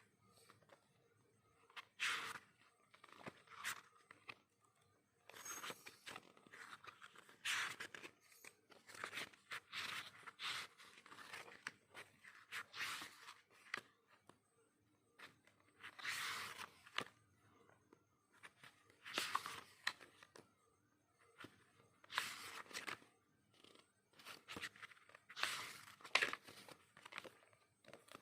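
Packaging and paper goods being handled, with irregular bursts of crinkling and rustling, some sharper like tearing.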